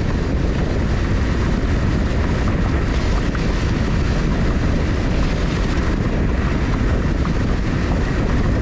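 Steady, even road and engine noise of a moving vehicle, heavy in the low end.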